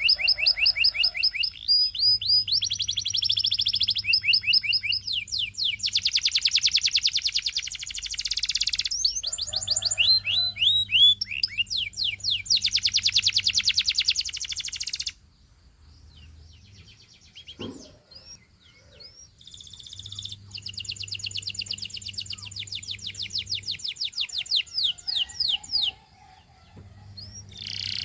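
Domestic canary singing: rapid trills and rolls of fast-repeated high notes in long phrases. The song drops to a few faint chirps for several seconds about halfway through, then picks up again.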